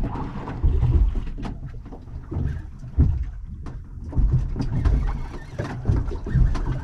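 Irregular low thumps of water slapping the hull of a small anchored boat, about one a second, with scattered sharp clicks and knocks from gear aboard.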